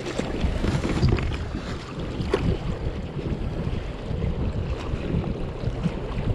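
Wind buffeting the microphone over water lapping against a kayak's hull, with a couple of light knocks.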